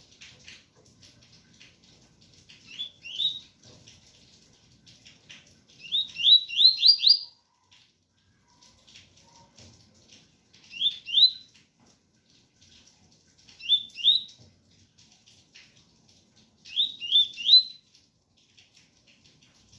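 Double-collared seedeater (coleiro) singing its 'tui-tui' song: five short phrases of two to five quick rising whistled notes, a few seconds apart, over a steady patter of rain.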